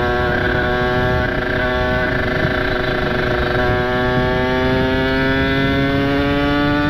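Ported two-stroke Kawasaki Ninja RR with an aftermarket exhaust, ridden under steady throttle in one gear, its engine note climbing slowly as it gathers speed. Wind noise on the microphone sits under the engine.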